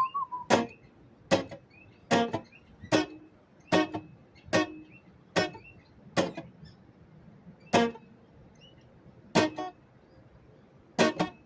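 Guitar chords struck one at a time, about one a second, spacing out toward the end, each left to ring. A whistled note trails off right at the start, and a small bird chirps faintly between the chords.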